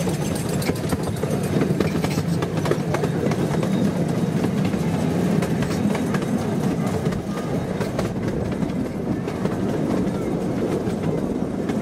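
Small tourist train running, heard from an open passenger car: a steady low rumble of wheels on the rails with frequent sharp clicks, thickest in the first few seconds.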